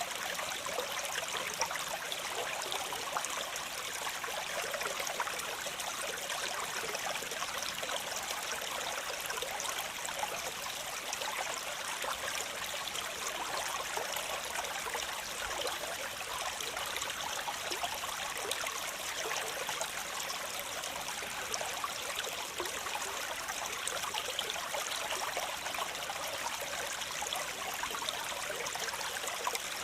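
Waterfall: water falling and splashing in a steady, unbroken rush, mostly high and hissy with little low rumble.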